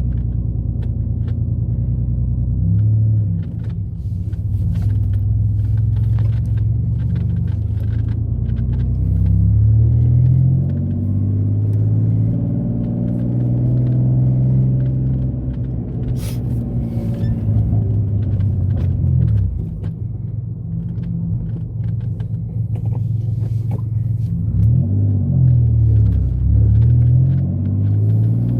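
Mitsubishi 3000GT's SOHC 3.0-litre V6, running with gutted catalytic converters and heard from inside the closed cabin while driving. The engine note climbs and falls several times as the car accelerates and shifts, and there is a single sharp click about halfway through.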